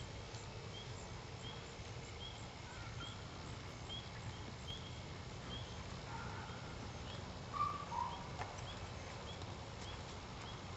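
A bird repeating a short high chirp about twice a second over a steady low background noise, with a louder two-note call about three quarters of the way through.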